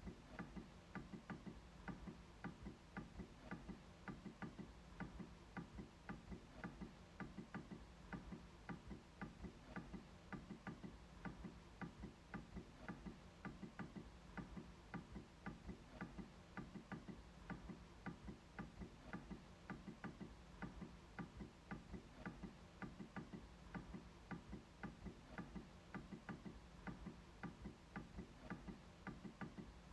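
MacBook trackpad being clicked over and over, a steady run of faint, evenly spaced clicks, a few each second.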